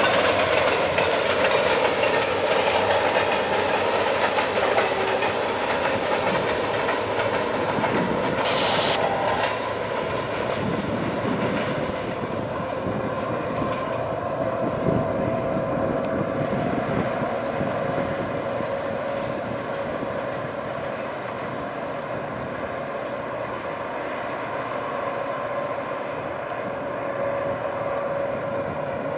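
Freight train's covered hopper cars and boxcars rolling past on the rails, a steady rolling noise that grows gradually quieter as the end of the train passes and draws away.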